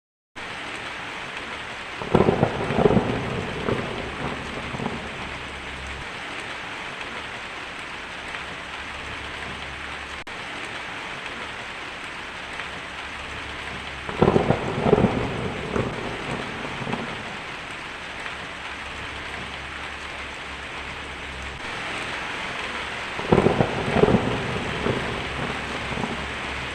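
Steady heavy rain with three claps of thunder, about ten seconds apart, each cracking sharply and then rumbling for a few seconds.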